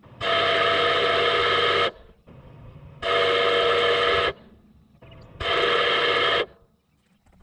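A horn sounds three long, steady blasts, the first the longest at almost two seconds and the last about a second, with a faint low hum in the gaps between them.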